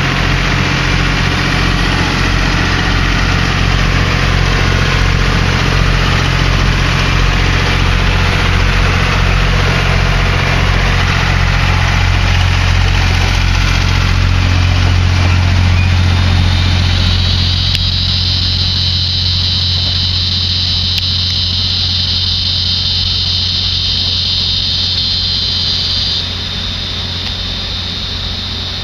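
Passenger train pulling away slowly, with the steady low drone of its diesel engine easing off a little as the coaches roll past and recede. A high, steady whine joins in the second half and cuts off abruptly near the end.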